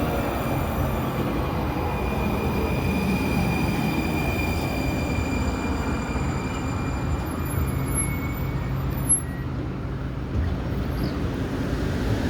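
Train running on the rails: a steady rumble with a faint whine that falls slowly in pitch near the start, and one short knock about nine seconds in.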